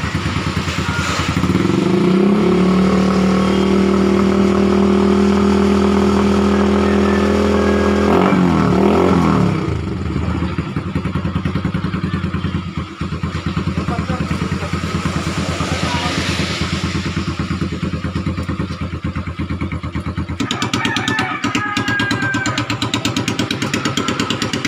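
Motorcycle engine running through an aftermarket exhaust pipe: revved up about a second and a half in and held at steady high revs for several seconds, then dropping back to a fast idle.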